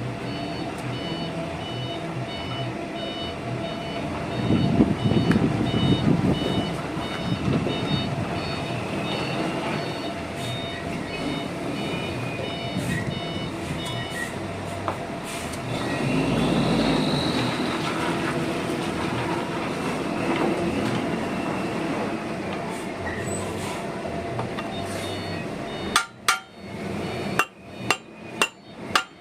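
Workshop noise with a steady hum and intermittent high beeping, then near the end a rapid run of sharp hammer blows, about two or three a second, during a rear brake shoe replacement.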